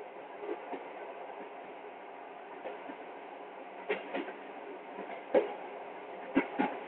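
Passenger train rolling along the track, heard from inside the carriage: a steady rumble broken by sharp wheel clacks over the rail joints, the loudest in quick pairs about four and six and a half seconds in, with a single sharp clack between them.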